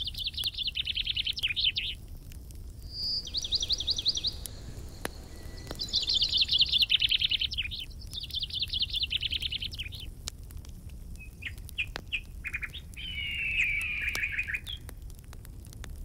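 Songbirds singing: fast trilled phrases a second or two long, repeated several times with short gaps, with a different chattering phrase near the end.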